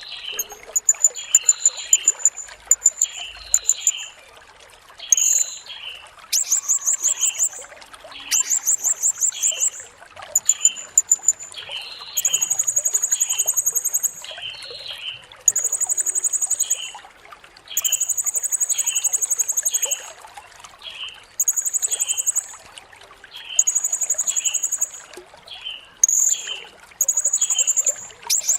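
Blue-crowned hanging parrot (serindit) singing: bursts of rapid, very high, buzzy trills a second or two long, repeated over and over with short gaps, over a regular series of lower chirps about every three-quarters of a second.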